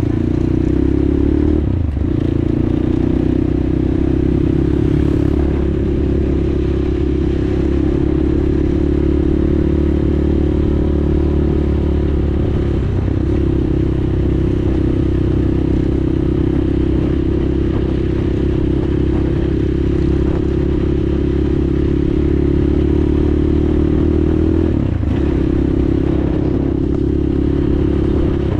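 PROGASI SUPER MAX 250 enduro motorcycle's 250 cc single-cylinder engine running steadily at cruising speed, heard from the rider's position. Its note dips briefly three times, about 2, 13 and 25 seconds in.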